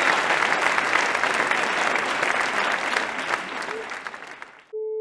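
Audience applauding with dense clapping, which fades away near the end. The applause cuts to a single held flute-like musical note just before the end.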